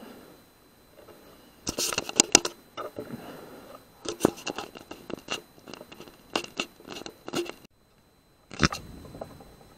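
Irregular clicks, taps and scrapes from an air rifle and its scope-mounted night-vision unit being handled and swung around. The sounds come in quick clusters, stop abruptly near the end, and are followed by one more sharp click.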